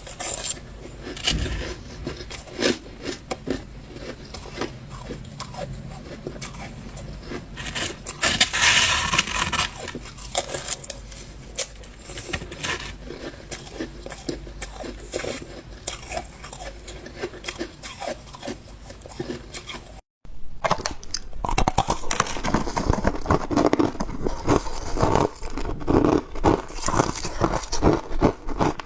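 Ice being bitten and crunched between teeth, close to the microphone: a rapid, uneven run of sharp cracks and crunches. The sound cuts out for a moment about two-thirds of the way in, then comes back louder and denser.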